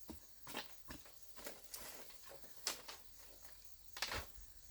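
Scattered light clicks and knocks at irregular intervals, the loudest a brief double knock about four seconds in.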